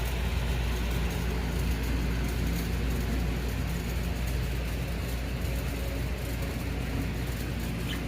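Steady low mechanical rumble with a hum, like a running engine; a bird gives one faint short chirp near the end.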